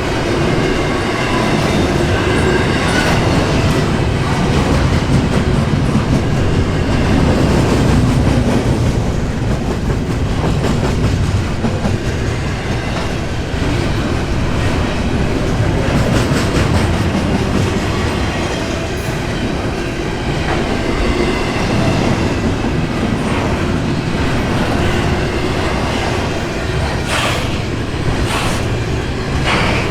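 Intermodal container train rolling past: a steady heavy rumble of steel wheels on rail, with rhythmic clicking over rail joints and a few sharp clanks near the end.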